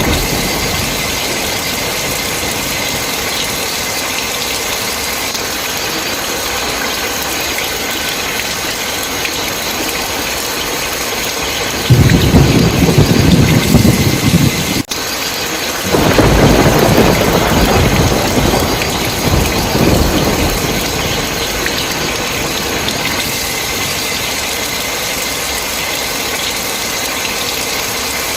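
Steady heavy rain, with a loud rumble of thunder about halfway through that breaks off sharply. A second rumble follows a second later and fades away over several seconds.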